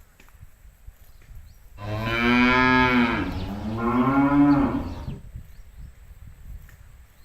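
A cow mooing: one long call of about three seconds starting about two seconds in, in two parts, the pitch sliding down and then rising and falling again.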